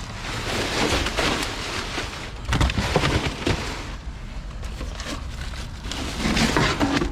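Trash being rummaged in a dumpster: plastic bags and boxes rustling and crackling, with irregular knocks and clatters of items being moved.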